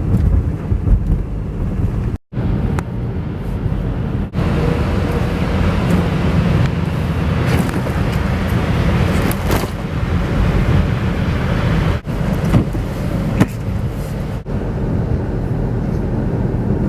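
Car driving on a snow-covered motorway, heard from inside: steady road and tyre noise, strongest at the low end, broken by a few brief dropouts.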